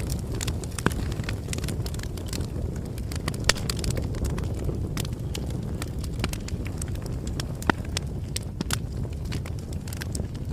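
Bonfire burning: wood crackling with scattered sharp snaps and pops over a steady low rush.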